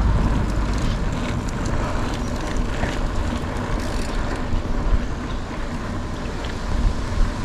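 Wind buffeting the microphone of a camera on a moving mountain bike: a steady low rumble, with the bike's tyre noise and scattered small clicks and rattles.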